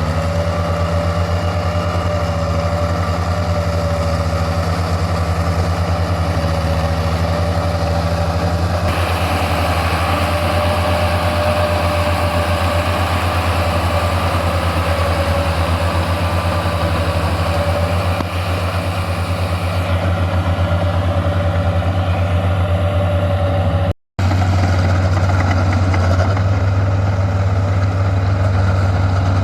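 Tractor engine running steadily at an even speed, with a brief dropout about 24 seconds in.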